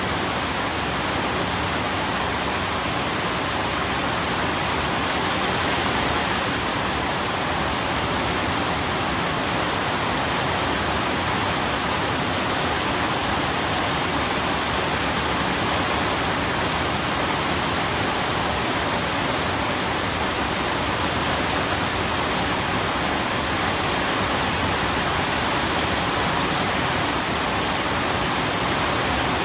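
Steady heavy rain, an even unbroken hiss with no separate drops or thunder.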